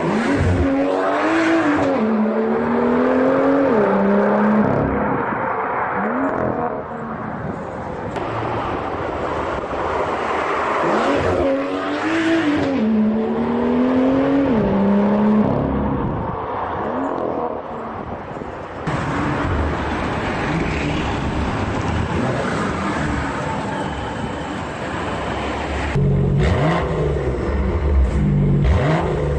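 BMW M2's turbocharged straight-six and exhaust accelerating hard through the gears twice, the pitch climbing and dropping back at each upshift. In between, the engine runs lower and steadier.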